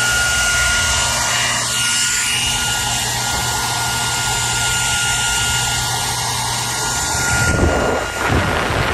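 Hair dryer running steadily: a rush of air with a steady high whine over a low motor hum. Near the end the airflow noise surges in three uneven gusts.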